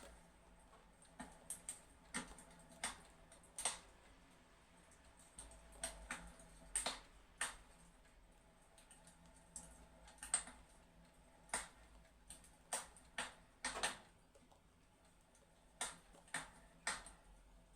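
Faint crackling of a fireplace: irregular sharp pops and snaps, about one a second, over a low steady background.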